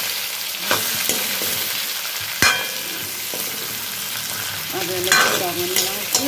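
Chicken pieces sizzling as they fry in a black iron karai, stirred with a metal spoon that scrapes and clinks against the pan. There is one sharper metallic clank about two and a half seconds in.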